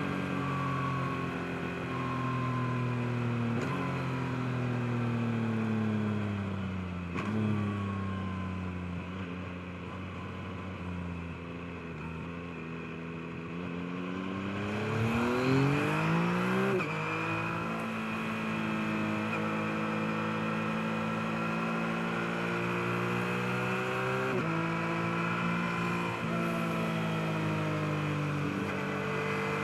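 Yamaha MT-09's 890 cc inline three-cylinder engine under way. The engine note falls steadily as the bike slows, then the engine revs up sharply about halfway through, the loudest moment, before dropping back. It then pulls on at steadier revs with a few step changes in pitch from gear changes.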